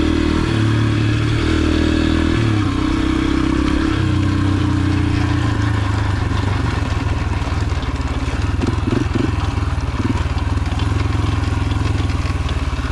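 Yamaha TT-R125's single-cylinder four-stroke engine running under a rider on a trail. The engine note dips and picks up several times in the first few seconds with the throttle, then holds steadier, with a few short rattles about two-thirds of the way through.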